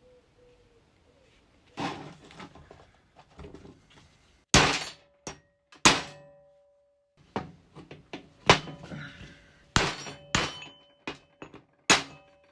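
Workshop clatter: about seven sharp metal knocks with lighter rattling between them, several leaving a short ringing tone, as tools and engine parts are handled and struck.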